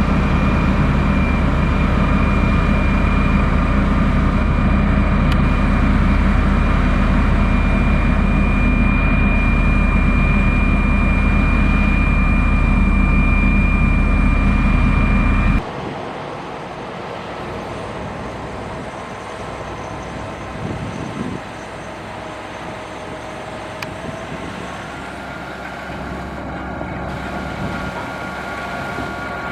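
Heavy diesel engine of a motor grader running steadily, loud and close with a deep rumble; about halfway through it cuts off suddenly and a quieter, more distant engine runs on.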